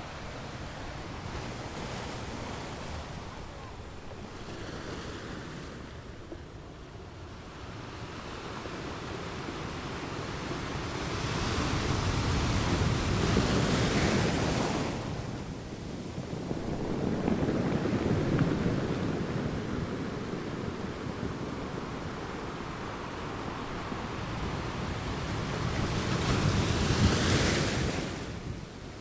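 Rough sea at high tide with waves surging and breaking, and strong wind buffeting the microphone. The surf swells up loudest three times: about a third of the way in, just past halfway, and near the end.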